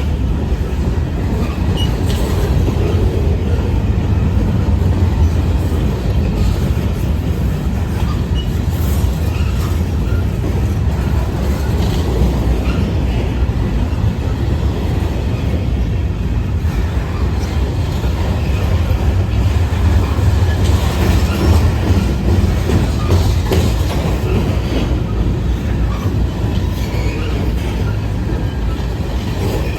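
A train rolling steadily past: a continuous heavy low rumble of cars on the rails, with light clickety-clack and faint touches of wheel squeal.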